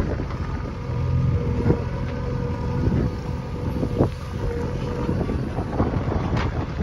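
Backhoe loader's diesel engine running steadily, with a faint whine and a few sharp knocks, one about two seconds in and another about four seconds in.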